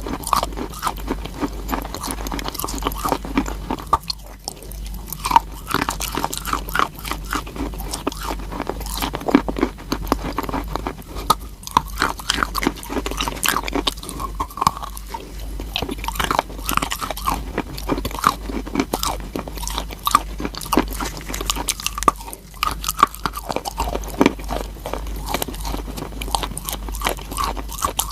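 Chalk being bitten and chewed close to the microphone: continuous dense, irregular crunching and crackling.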